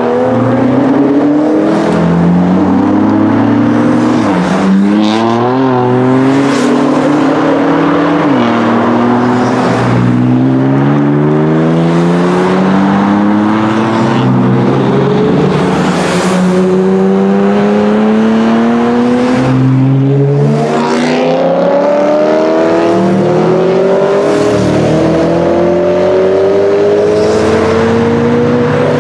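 A string of BMW cars accelerating hard away one after another. Their engine notes overlap, each rising through the gears and dropping sharply at every upshift.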